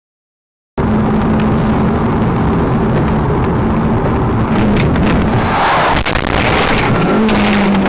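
Car engine and road noise from a moving car, cutting in abruptly about a second in after silence, with a few sharp knocks in the middle; the engine note drops steadily in pitch near the end.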